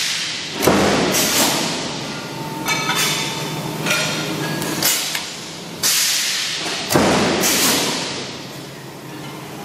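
CNC metal spinning machine at work: a series of sharp knocks roughly every second, each trailing off in a hiss, with a brief metallic ringing squeal about three seconds in.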